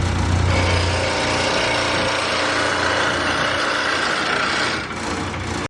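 Union Jubilee wood lathe running with a turning tool cutting a spindle blank: a steady whirring cut over the motor's low hum. The cutting noise thickens about half a second in, and the hum eases off after the first second.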